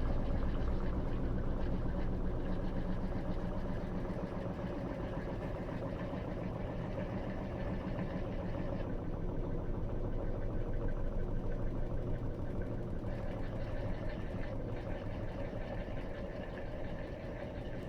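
Electrolux LT13B top-load washing machine running through its wash cycle: a steady motor and drum hum that eases slightly toward the end.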